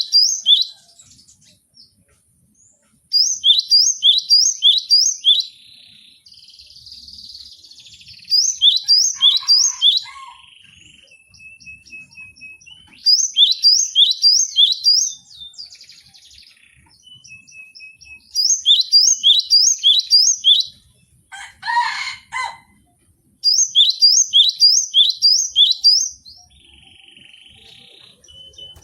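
Cinereous tit singing: a quick run of rising, ringing notes, repeated in bursts of about two seconds roughly every five seconds. A short harsh call sounds once about three-quarters of the way through.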